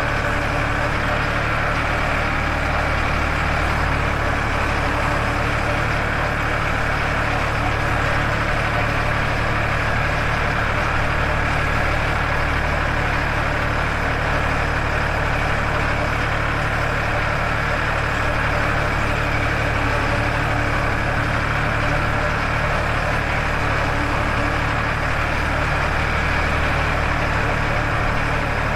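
Farmtrac 60 tractor's diesel engine running at a steady speed under way, with no change in pitch or level.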